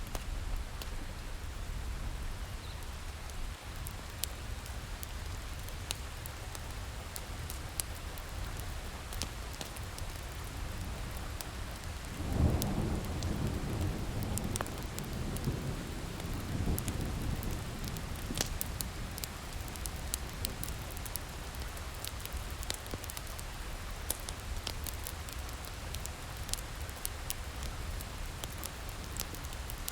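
Steady rain with a wood fire crackling in many short, sharp pops. About twelve seconds in, a roll of thunder rumbles for several seconds, the loudest sound here.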